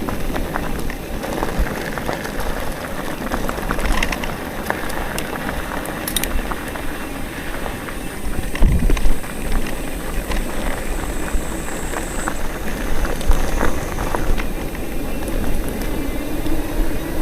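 Wind rushing and buffeting over the microphone of a moving bicycle, with scattered clicks and rattles from the bike.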